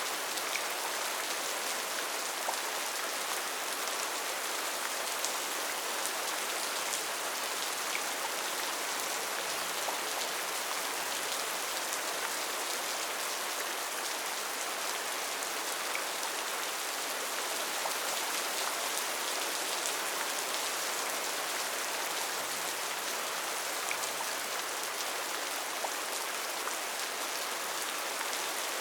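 Steady rainfall in a rainforest: an even hiss of rain with scattered individual drops ticking on leaves and surfaces.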